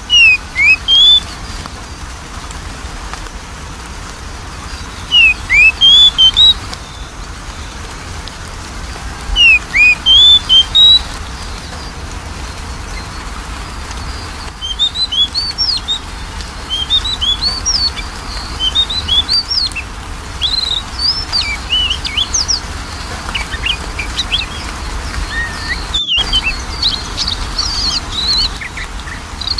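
Oriental magpie-robin (kacer) singing: three loud phrases of a few sliding whistles each, some seconds apart, then from about halfway a steady run of quicker, softer twittering notes.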